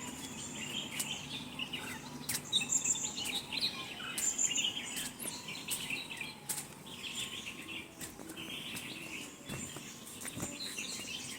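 Several birds chirping and calling, short scattered chirps and trills overlapping, with a few faint clicks.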